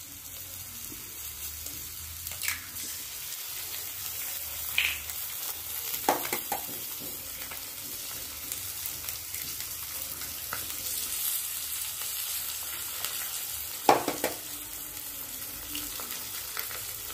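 Dry-prawn and onion masala sizzling steadily in a kadai as raw eggs are cracked into it, with a few short sharp taps of eggshells breaking.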